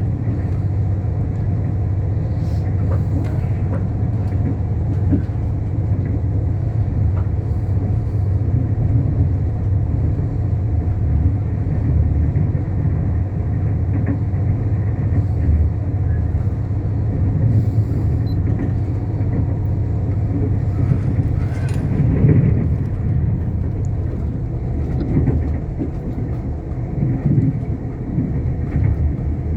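Train in motion: a steady, continuous low rumble of wheels on rail and running gear, with occasional brief clicks and squeals from the track.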